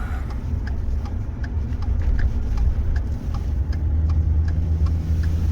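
Car running on the road, heard as a steady low engine and road rumble, with faint light ticks repeating at an even pace.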